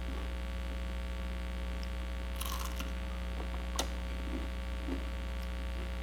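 Steady electrical hum with a few crunchy bites and chewing of crispy chicharon bulaklak (deep-fried pork intestine): one brief crunch about two and a half seconds in, a sharp click near four seconds, then a few soft mouth sounds.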